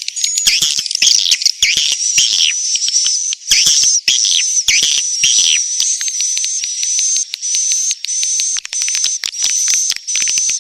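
Swiftlet (walet) calls: a dense, continuous chorus of high twittering chirps with rapid sharp clicks mixed in. It is a lure recording of the kind played from swiftlet houses to draw the birds in to roost and nest.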